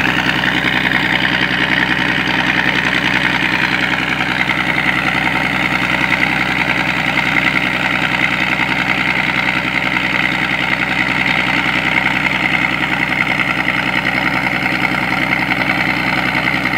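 Scania 113 six-cylinder diesel engine driving a sand dredge, running steadily. Its tone brightens slightly about four seconds in.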